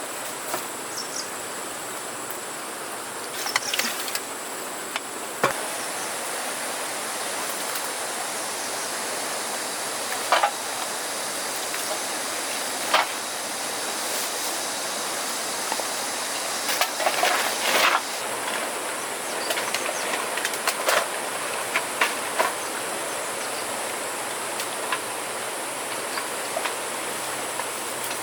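Steady outdoor hiss with a thin, high insect-like drone, broken by scattered short knocks and rattles, most in a cluster around the middle.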